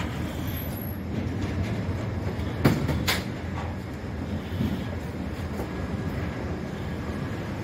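Passenger train with LHB coaches running slowly across a steel truss bridge: a steady low rumble of wheels on rail, with two sharp clacks about three seconds in.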